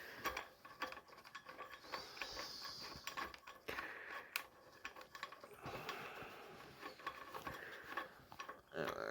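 Ratchet wrench clicking in quick, light runs while a small 8 mm nut is worked off, with faint clinks of tools on metal.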